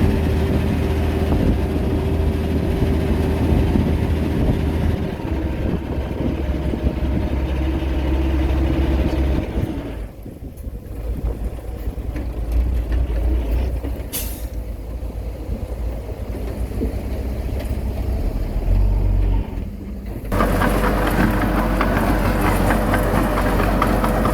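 Heavy diesel engine of earthmoving machinery running, dropping to a lower rumble about ten seconds in and picking up again near twenty seconds. There is one short, sharp hiss near the middle.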